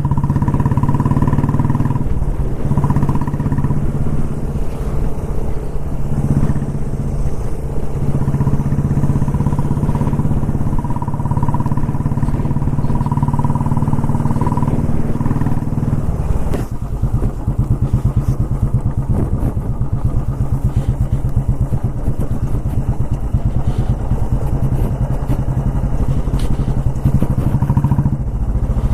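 Motorcycle engine running steadily under way. The engine note changes about halfway through.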